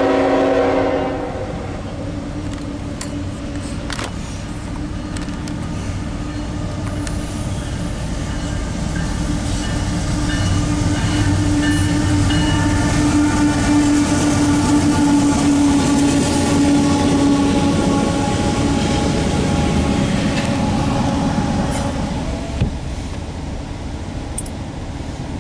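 CSX freight locomotive horn sounding its chord, which cuts off about a second in, then the diesel locomotives passing close with a steady engine drone, followed by loaded autorack cars rolling past with wheel and rail noise.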